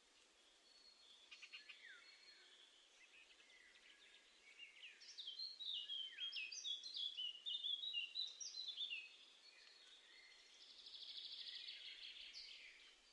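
Small songbirds calling outdoors. A run of quick, falling chirps comes in the middle, then a buzzy trill follows near the end.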